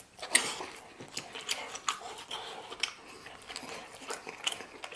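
Close-up mouth sounds of a person eating lamb rib meat and rice pilaf: irregular wet chewing and lip smacks, with one sharp smack about a third of a second in.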